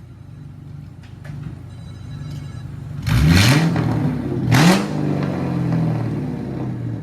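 A car engine idling, then revved twice in quick succession, about three seconds in and again about a second and a half later, each time rising sharply in pitch and falling back to idle.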